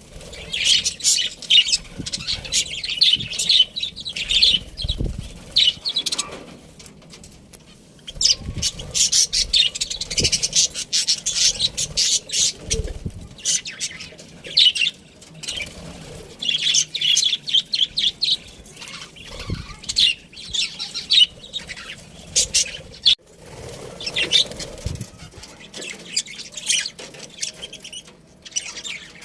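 Budgerigars chirping and chattering in quick high runs, pausing briefly about a quarter of the way in before starting again, with a few soft low thumps among the calls.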